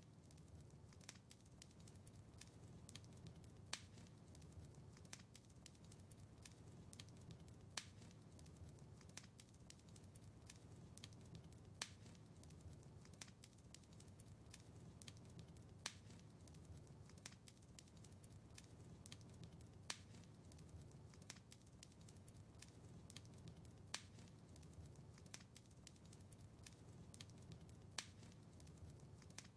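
Wood fire crackling in a fireplace, faint: a steady low rumble of flames with frequent small snaps and a sharper pop about every four seconds.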